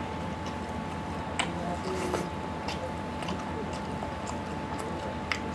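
A person chewing a mouthful of chicken curry and rice, with short sharp mouth clicks every second or so over a steady background hum.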